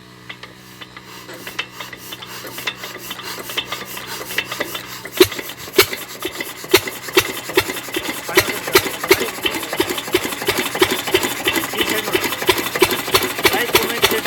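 8 hp single-cylinder diesel engine being hand-cranked to start: a rhythm of clattering strokes that quickens and grows louder, with heavier regular knocks from about five seconds in.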